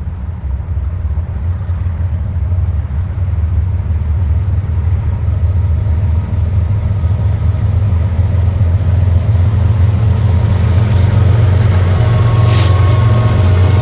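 Freight train rolling past: a steady low rumble that grows a little louder toward the end.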